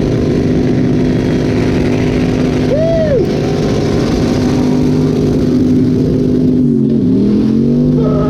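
Twin-turbo Toyota 1UZ V8 held at steady high revs during a burnout, with the tyres spinning. The revs sag briefly past six seconds in, then climb back.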